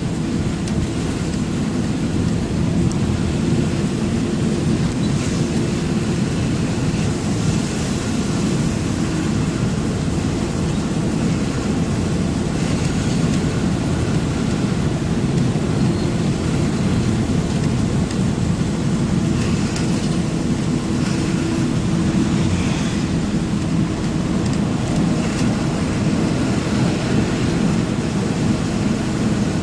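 Truck running down the road: steady engine drone with road and wind noise, unchanging throughout.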